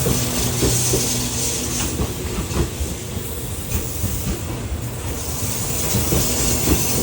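Train running on the track: wheels clicking over the rails over a steady low rumble, with a high hiss that fades around the middle and returns near the end.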